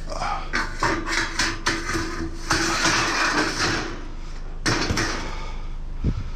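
Scrap being handled: a quick string of hard knocks and clanks, then a rough scraping for about two seconds. One more knock follows, and a low thump near the end.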